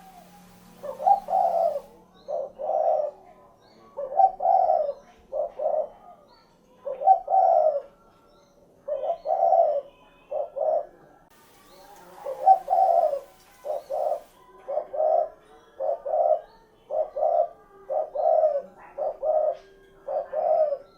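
Spotted dove cooing over and over, in phrases of low coo notes separated by short pauses: its "cukurukuk kuk geruk" song. Faint high chirps of other small birds are scattered behind it.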